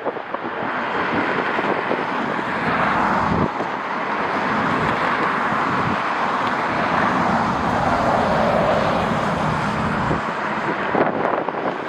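Jet airliner's engines running as it passes, a steady noise that builds within the first second and sinks slowly in pitch, with gusts of wind buffeting the microphone.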